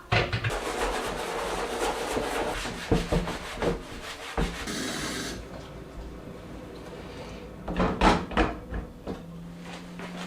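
Workshop handling noise: a few seconds of rubbing or scraping with knocks, then a short hiss about halfway through. More knocks follow, and a low steady hum starts near the end.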